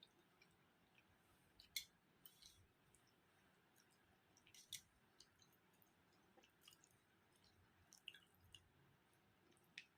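Faint eating sounds of fish curry and rice: soft, wet chewing with sharp mouth clicks and smacks every second or so, the loudest about two seconds in and near the middle.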